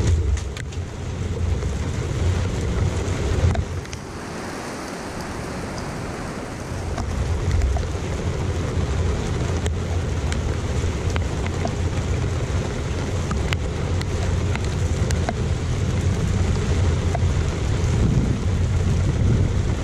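Steady rain falling in a thunderstorm, with scattered drops ticking sharply close by over a low rumble. The rumble dips for a few seconds about four seconds in, then returns.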